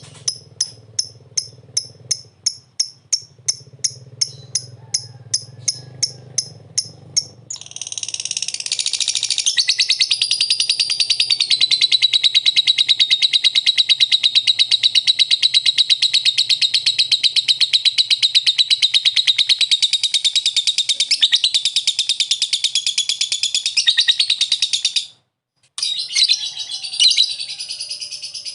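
Lovebird calling: evenly spaced sharp chirps, about two or three a second, over a low hum, then a long unbroken rapid chattering trill (the 'ngekek' song) lasting about seventeen seconds. It breaks off briefly near the end and the chatter starts again.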